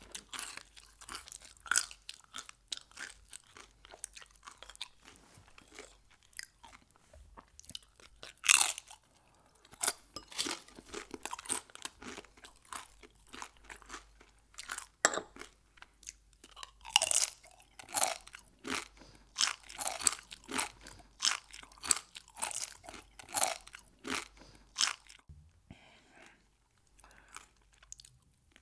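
A person chewing crunchy Mexican food in a steady run of sharp crunches and bites. The loudest crunch comes about eight seconds in, the crunching is thickest in the second half, and it gives way to softer chewing near the end.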